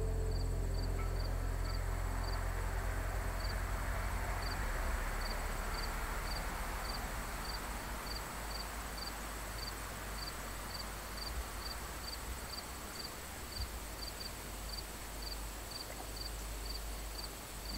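Field insects chirping in a steady chorus: one high chirp repeating about twice a second over a steady high buzz. Low background music fades out over the first few seconds.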